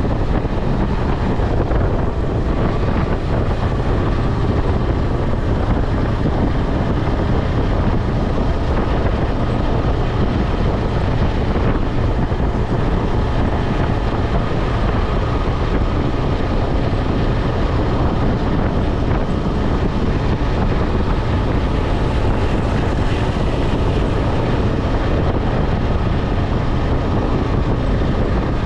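Steady wind rush on the microphone at highway speed, over the KTM 250 Adventure's single-cylinder engine running at a constant pace.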